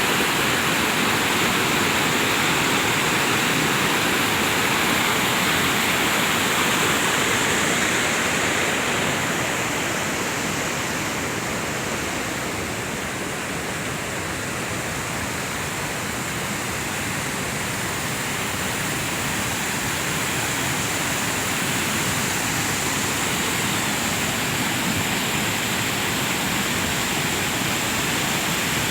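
Lahar flood, a rain-triggered volcanic mudflow off Semeru, rushing steadily down the river channel. It eases slightly for a few seconds midway.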